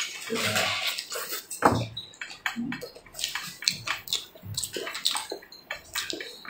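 Close-up, wet chewing and lip-smacking of a mouthful of braised meat with tendon: irregular sticky clicks and smacks, with a few short low mouth sounds.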